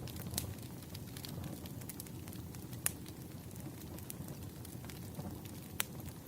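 Campfire burning: a steady low rumble of flames with scattered sharp crackles and pops of burning wood, one louder pop about three seconds in and another near the end.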